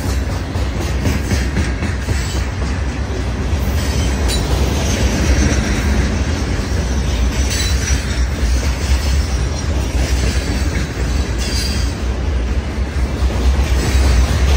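Freight train of open-top hopper cars rolling past: steel wheels on the rails give a steady low rumble, with a few brief sharp noises from the cars as they go by.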